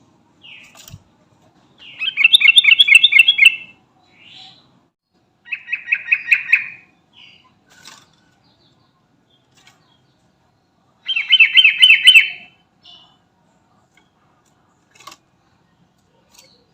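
Sooty-headed bulbul (trucukan) singing: three loud bubbling phrases of rapid repeated notes, each about a second and a half long, with a few short soft calls between them.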